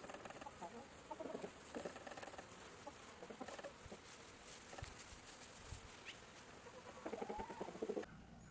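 Chickens clucking in short repeated bursts, louder near the end, then cutting off suddenly.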